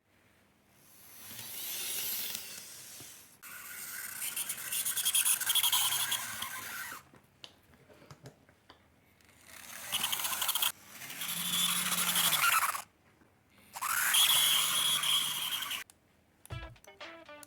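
The small motor and gears of a KATO N-gauge model train power car running in about five short whirring bursts of one to three seconds each, with brief pauses between them.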